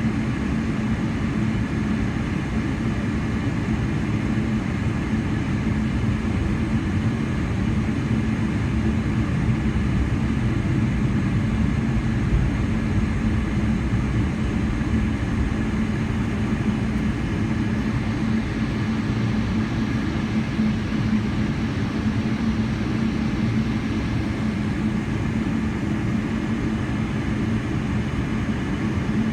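Steady engine and air noise of a Boeing 777-300ER heard inside the passenger cabin, a constant low hum over a rushing hiss, with no rise or change.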